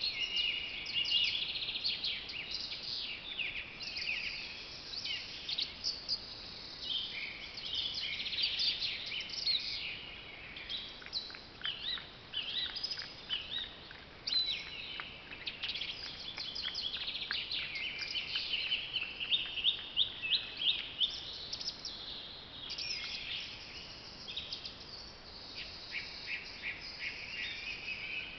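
Many songbirds singing at once, a dense chorus of overlapping chirps and trills, over a faint steady hiss.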